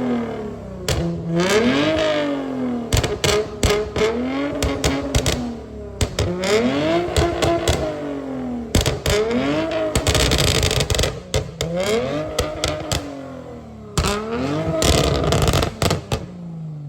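Toyota Mark X's swapped 3.5L 2GR-FSE V6 revved repeatedly through its exhaust, heard from outside the car. Each blip rises and falls in pitch, about one every second or two, with sharp crackles through them. The engine settles and fades near the end.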